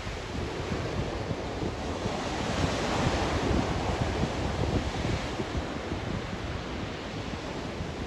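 Blizzard wind blowing hard and buffeting the microphone with a low fluttering rumble; a gust swells up and eases off in the middle.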